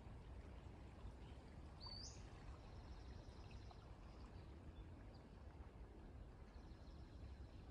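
Near silence: faint outdoor ambience, with a single short rising bird chirp about two seconds in and faint, thin bird calls afterwards.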